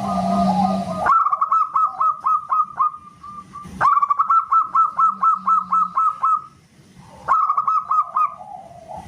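Zebra dove (perkutut) singing: runs of rapid, short cooing notes, about six a second, each dipping slightly in pitch. The recording cuts abruptly between runs about a second in and again near four and seven seconds in.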